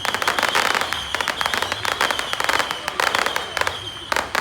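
Fireworks going off in several rapid volleys of dense, sharp cracks, one cluster after another. A steady high tone sounds underneath.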